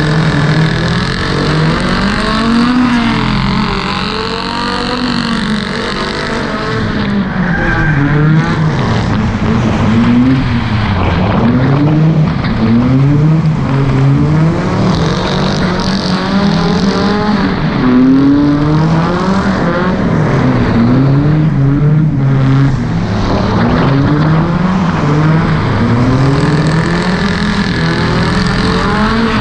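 Drift car engine revving up and down over and over, a rise and fall in pitch about every one to two seconds, as the car slides sideways through a wet corner, with steady tyre noise on the wet track.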